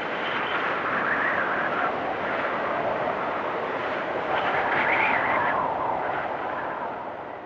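Blizzard wind blowing in gusts, with a wavering, whistling howl that swells about a second in and again around five seconds, then fades near the end.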